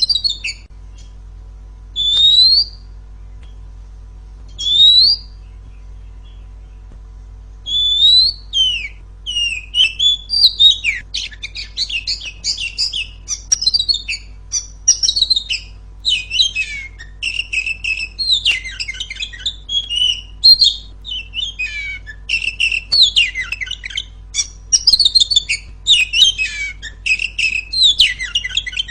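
Female oriental magpie-robin (kacer) singing: two single rising whistles a few seconds apart, then from about eight seconds in a fast, unbroken run of varied chirps and whistles. A faint steady low hum lies underneath.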